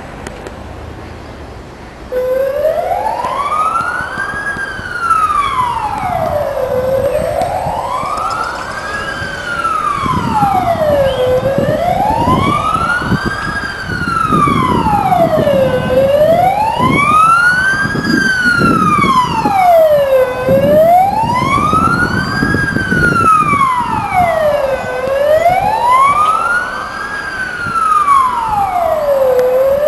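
A wailing siren starts abruptly about two seconds in, its pitch rising and falling smoothly and evenly about every four and a half seconds.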